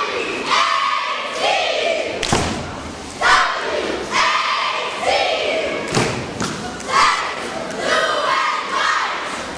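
Cheerleading squad shouting a cheer in unison, in short loud calls about once a second, with sharp thumps from stomps or landings on the mat.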